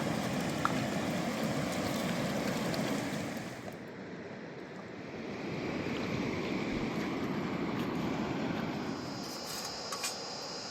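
A fast mountain river rushing, a steady wash of flowing water that dips briefly about four seconds in.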